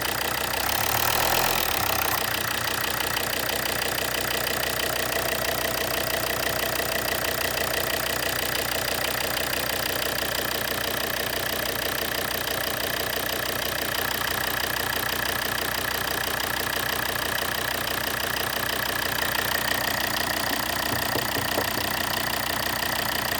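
Volvo D5244T10 2.4-litre five-cylinder turbodiesel idling steadily, with a brief change in the sound about a second in.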